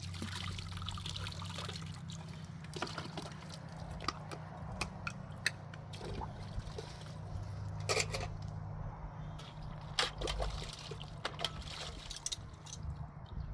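Water trickling and splashing, with scattered sharp clicks and knocks over a steady low hum.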